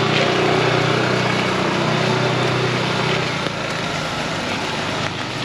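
Heavy rain pouring down, with a motor vehicle's engine running close by whose hum fades out about three seconds in.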